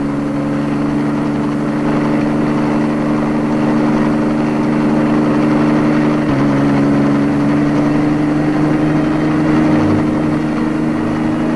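Engine running steadily: a constant drone of several held pitches over a noisy hiss, with a slight shift in pitch about six seconds in.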